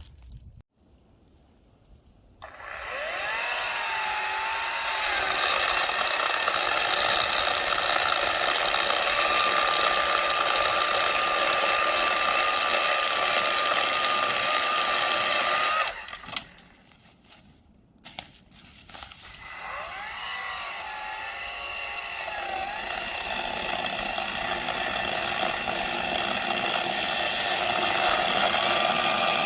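Small electric power saw cutting firewood in two long runs. Each run starts with a whine spinning up, and the saw stops for a few seconds in between.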